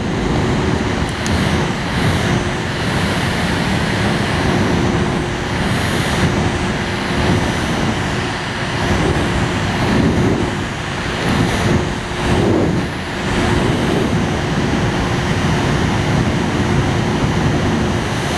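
Mini air conditioner's fan running: a steady rush of blown air with a constant hum, starting suddenly.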